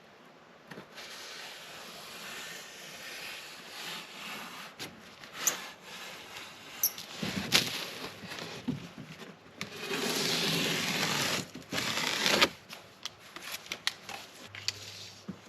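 Styrofoam insulation board being cut and handled: scraping and crackling with scattered clicks, and a louder stretch of rasping about ten seconds in that stops about two and a half seconds later.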